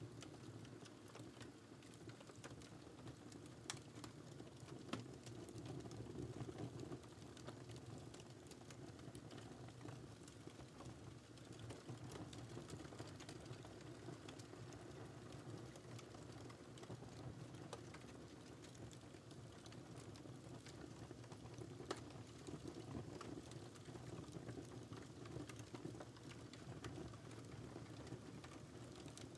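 Faint wood fire crackling in a fireplace: a steady low rumble of flame with many small crackles and a few louder pops, about 4, 5 and 22 seconds in.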